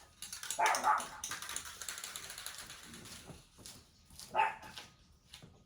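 Dog barking twice, about a second in and again about four seconds later, over light rattling and clicks.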